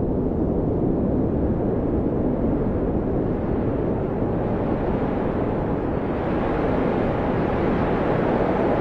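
Blizzard wind blowing hard and steadily, a deep rushing noise that strengthens in the second half, with a faint whistling howl near the end.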